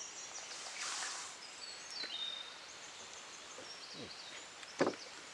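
Small birds singing and trilling in the background of an outdoor ambience, with a soft rustle about a second in and a short sharp sound near the end.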